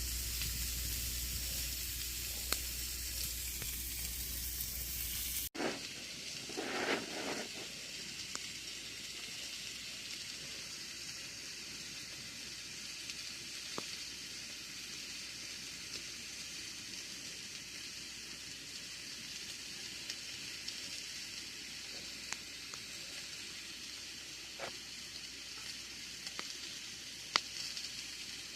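Campfire burning: a steady hiss with scattered sharp crackles and pops. About five seconds in the sound changes abruptly to a quieter hiss, and a brief rushing swell follows.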